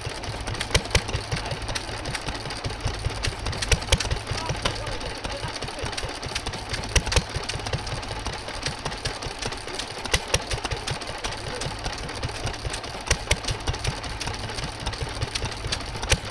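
Small Wolseley stationary engine running steadily while driving a mill, a low steady chug with sharp irregular clicks and knocks over it.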